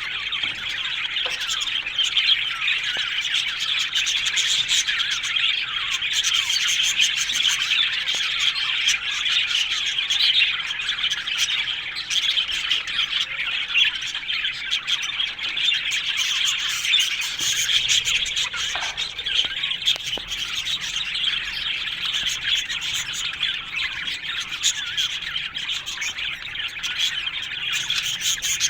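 A colony of budgerigars chattering together, a steady dense mix of overlapping chirps, warbles and squawks.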